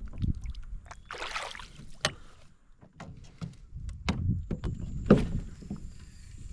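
Handling noises on a kayak: scattered knocks and clicks against the hull, with a brief rushing noise about a second in and a sharp knock about five seconds in.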